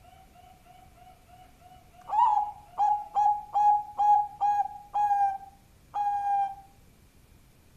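Zebra dove (Bangkok perkutut) singing: a faint quick run of soft notes, then about two seconds in a loud series of short staccato coos, ending in one longer drawn-out coo.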